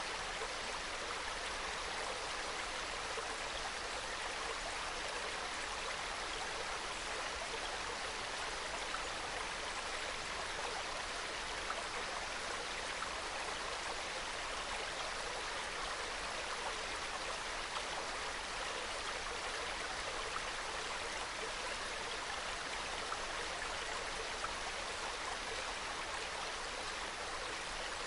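Small mountain stream running over rocks: a steady, even babble of water.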